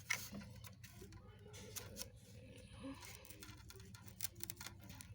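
Faint, scattered small clicks and scrapes as insect pins are worked out of and pushed back into a foam mounting board, over a low steady room hum.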